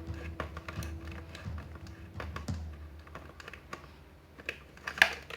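Light, irregular clicks and taps of small parts being handled and fitted during reassembly of a juicer motor, with one sharper click near the end.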